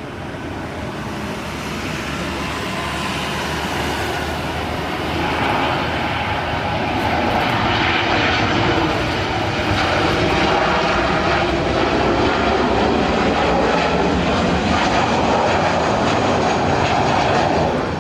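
Engines of a large airliner flying low over the runway approach, growing steadily louder over the first few seconds and then holding at full strength, with a slowly sweeping whine as it passes.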